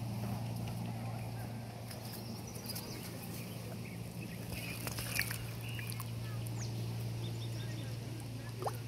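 Birds chirping and calling over a steady low hum, with a few short clicks and scuffs.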